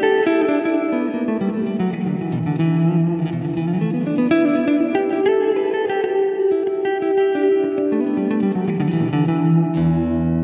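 Electric guitar played through a Poly Effects Poly Verbs impulse-response reverb pedal: a run of quickly picked notes ringing into one another in the reverb, then a low chord struck near the end and left ringing.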